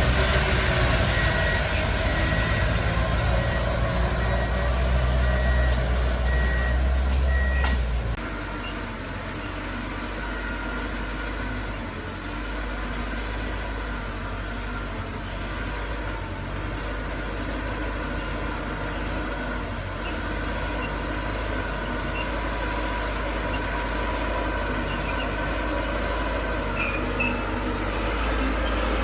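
Heavy diesel engine of earthmoving machinery running under work. It is loud until about eight seconds in, then abruptly drops to a quieter, steady engine sound.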